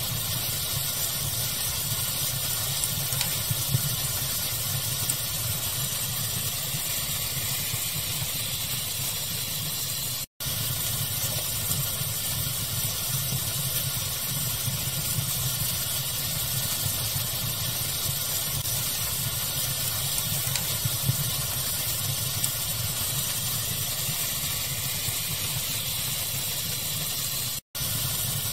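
Steady pink-noise hiss with the occasional crackle and pop of a wood fire; the sound cuts out completely for an instant twice.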